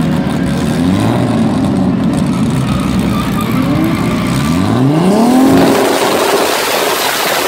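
Tuned car's engine revved hard while standing still: several rising blips, then a bigger rev about five seconds in that climbs higher and holds. Toward the end it gives way to a loud, noisy exhaust sound.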